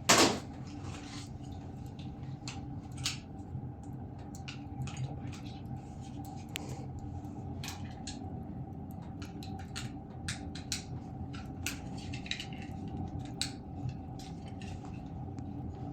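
Light scattered clicks and taps of small plastic parts being handled, with one louder click at the start, over a steady low hum.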